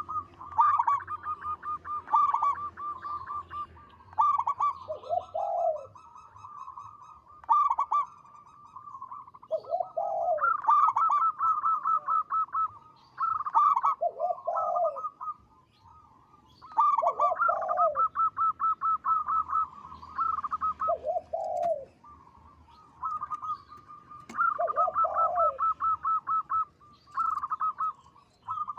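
Zebra dove (perkutut) singing its cooing song over and over: runs of quick, stuttering coos on a steady pitch, each phrase broken by a lower, longer coo, with short pauses between phrases.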